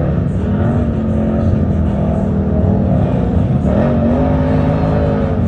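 Engines of off-road race vehicles running hard, their pitch rising and falling as they rev.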